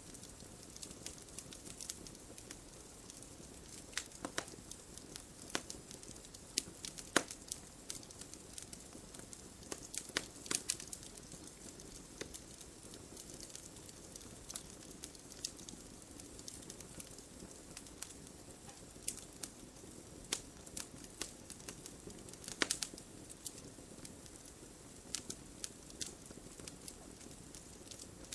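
Logs burning in a fireplace: irregular sharp crackles and pops over a steady low hiss of the fire, with a few louder pops scattered through.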